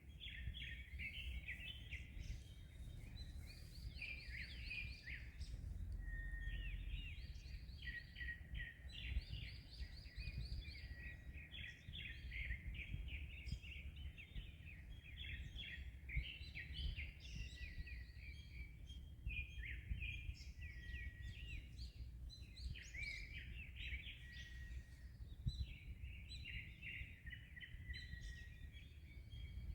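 Several birds singing without a break, overlapping chirps and quick trills, over a low steady rumble of wind and waves.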